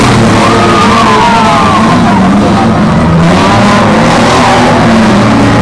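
Several demolition derby cars' engines running and revving, their pitch rising and falling, with music playing over the top.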